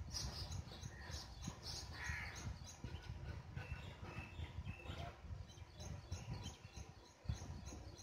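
Birds calling with many short, high chirps throughout, over a low steady rumble.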